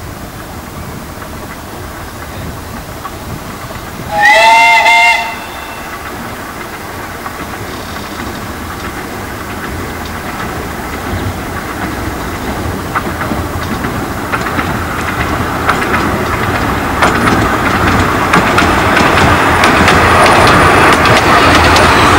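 A 15-inch gauge light railway train sounds its whistle once, a chord of several notes lasting about a second, about four seconds in. The train then draws near, its running growing steadily louder, with quick clicks of the wheels over rail joints toward the end.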